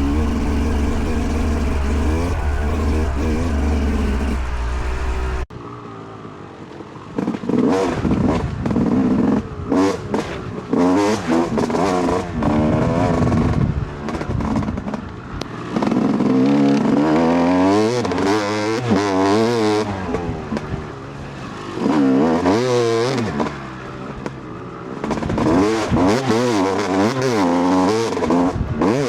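Dirt bike engine being ridden hard on a track, its pitch revving up and dropping back again and again. The sound changes suddenly about five seconds in, from a steadier drone to the repeated revving.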